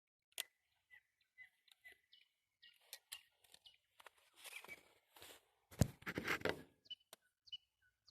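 Irregular knocks and clicks on a metal frame, some leaving a short high ring, with a louder thud and rattle about six seconds in.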